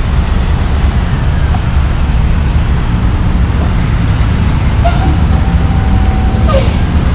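Road vehicle noise: a steady low rumble of engine and traffic, with a faint brief tone about five seconds in.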